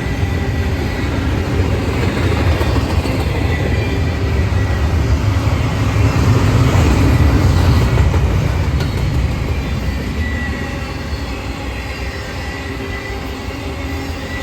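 Intermodal freight cars rolling past, with a steady rumble of wheels on rail and a faint high wheel squeal. The sound swells about six to eight seconds in, then eases.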